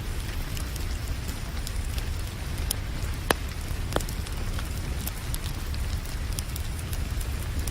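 Wood fire crackling with scattered sharp pops, the two loudest about three and four seconds in, over a steady hiss of rain and a low rumble.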